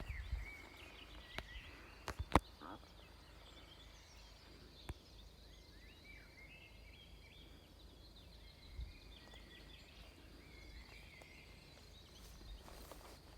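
Small birds chirping and twittering in short repeated notes, with a few sharp knocks about two seconds in.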